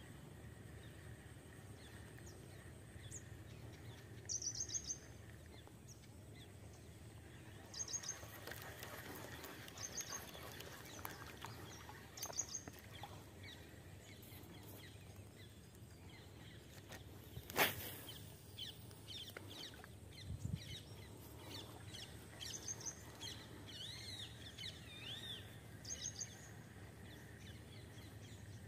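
Birds calling over a faint steady outdoor hiss: short clusters of high chirps every two to three seconds, with a couple of rising and falling whistles near the end. One sharp click sounds about two-thirds of the way through.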